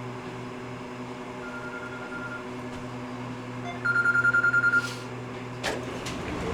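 Steady electric hum of a stopped Otis Hovair air-levitated airport tram. About four seconds in, a rapid high electronic beeping sounds for about a second, the tram's door-closing warning, followed by a few sharp clicks as the doors start to move.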